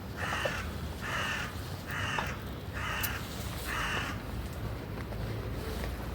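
A bird giving a series of harsh, caw-like calls, evenly spaced about one a second, five in a row, stopping about four seconds in.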